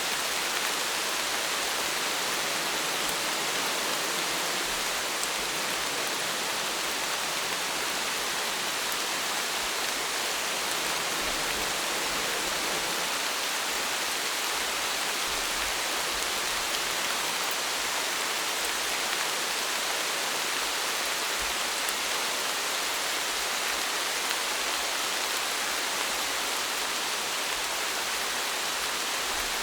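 Steady rain falling, an even hiss of drops with no change in level.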